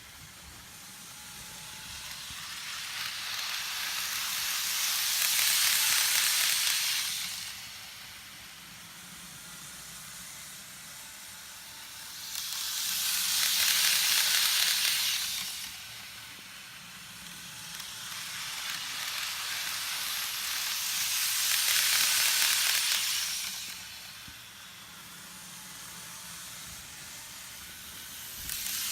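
N-gauge model trains running on a track loop: a hissing rush of motor and wheels on rail that swells as a train comes close and fades as it moves away, three times about eight seconds apart.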